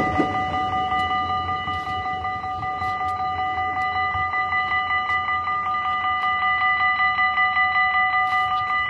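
Level crossing warning bell ringing in a rapid, even repeating rhythm.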